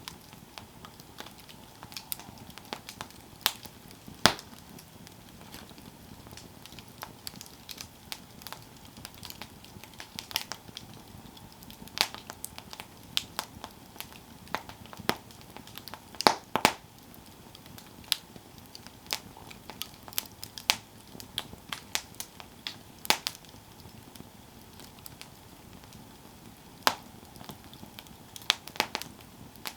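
Campfire of burning wood crackling, with irregular sharp pops and snaps, a few of them much louder, over a faint steady hiss of the flames.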